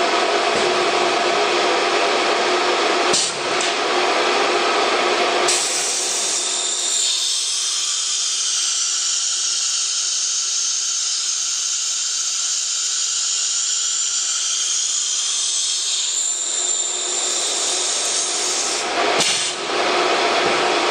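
CNC router running with a steady high-pitched whine and hiss. From about five seconds in until about sixteen seconds in the sound thins to mostly high pitch, then fills out again near the end.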